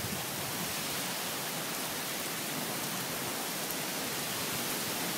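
Heavy rain pouring down in a steady, even hiss, with no gusts or thunder.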